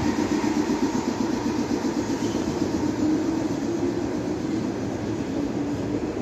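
Train passing on tracks beyond the platform: a steady rumbling run of rail noise that slowly fades.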